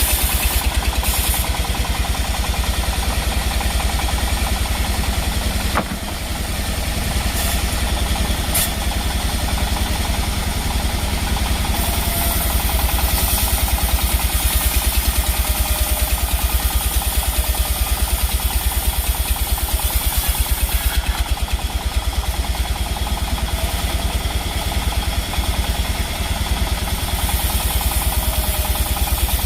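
A sawmill engine running steadily with a fast, even thudding pulse. There is a single sharp click about six seconds in, and a brighter hiss from about twelve to twenty-one seconds in.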